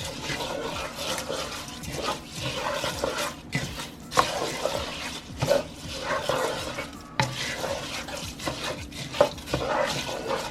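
Spoon stirring raw rinsed rice into gravy in a pot: continuous wet swishing and scraping, with a few sharp knocks of the spoon against the pot.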